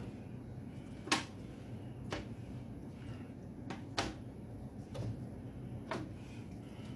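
Raw chicken wings being laid one by one into a baking pan, with a short knock about once a second as each piece goes down.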